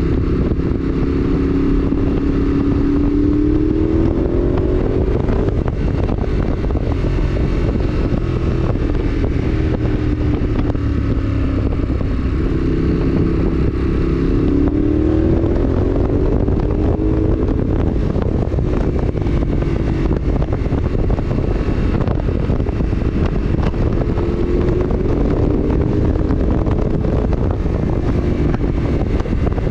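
Motorcycle engine running under way, its pitch climbing as it accelerates a couple of seconds in and again about halfway through, under heavy wind rush on the microphone.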